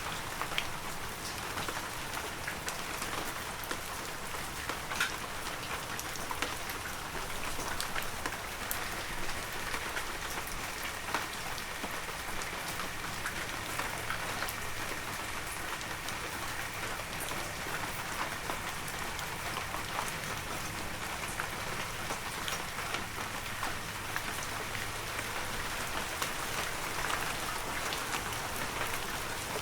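Heavy rain falling steadily, a dense hiss with many separate drops pattering on surfaces.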